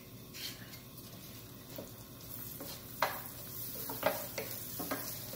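Butter and olive oil gently sizzling in a frying pan with minced ginger and garlic, the aromatics sautéing. About three seconds in, a wooden spatula starts stirring, giving a few sharp scrapes and taps against the pan.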